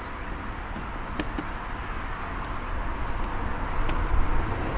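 Insects chirping in a steady high-pitched drone, with a faster pulsing trill under it. A low rumble grows louder near the end, and two faint clicks come about a second and about four seconds in.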